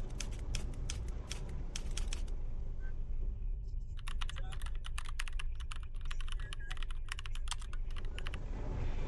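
A car driving, heard from its dashcam inside: a steady low rumble of engine and tyres, with irregular rapid clicking or rattling over the first two seconds and again for about four seconds from the middle on.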